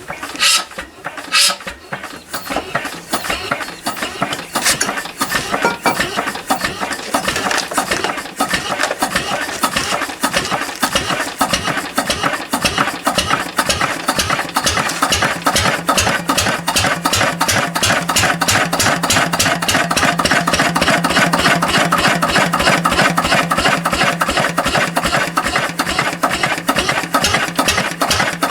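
Lister CS stationary diesel engine starting for the first time after a rebuild: a couple of knocks, then its firing beats pick up speed and settle into a steady, even idle.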